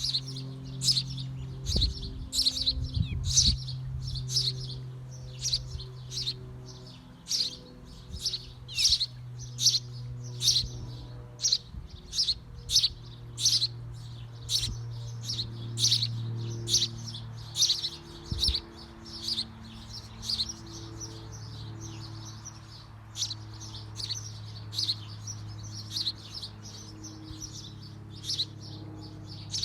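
Small birds chirping in a bird house: short, high chirps repeated about once or twice a second, over a low steady hum.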